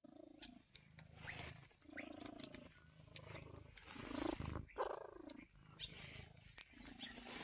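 Domestic cat meowing several times in long, drawn-out calls that bend in pitch.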